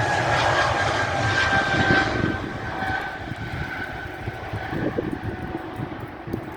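Airbus A220-300's Pratt & Whitney PW1500G geared turbofan engines going by, a loud rush with a whine that drifts slightly lower in pitch. The sound drops off about two seconds in as the jet moves away.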